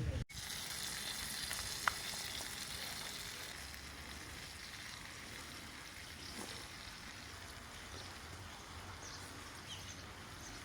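Steady sizzling of tandoori chicken cooking, easing off a little after the first few seconds, with one sharp click about two seconds in.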